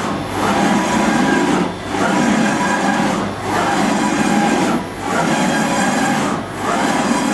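BRAND 850 NE CNC surface grinder running: a steady rushing, grinding noise with a faint whine over it. It dips briefly about every one and a half seconds, the rhythm of the table traversing back and forth.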